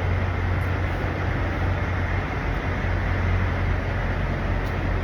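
Steady low engine hum and rumble of idling trucks, unbroken throughout.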